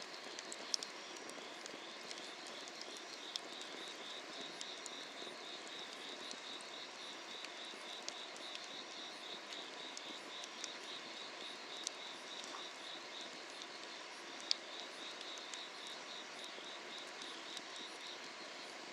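Firewood burning under a cast-iron cauldron, crackling with scattered sharp pops, over a steady chorus of night insects chirping in a fast, even pulse.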